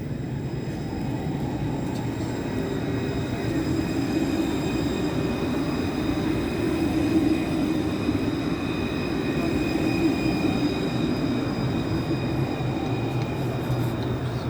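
Tram passing: a steady rumble of wheels on rail that swells through the middle and eases off, with a steady high whine above it.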